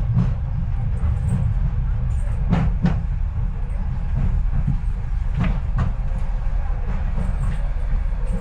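Docklands Light Railway train running between stations, heard from inside the carriage: a steady low rumble, with pairs of sharp wheel clacks over rail joints about two and a half and five and a half seconds in.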